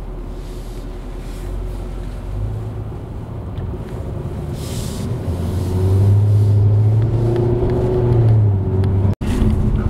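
A car engine running with a low, steady note that rises in pitch and gets louder a little past halfway. It cuts out abruptly near the end.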